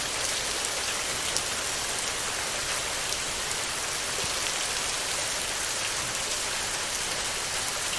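Steady heavy rain on a tin roof: an even hiss of rain with scattered sharp drop ticks.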